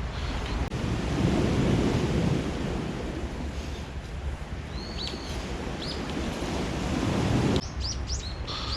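Waves washing onto a rocky cobble shore, swelling about a second in and again near the end, with wind buffeting the microphone. The sound drops off abruptly shortly before the end.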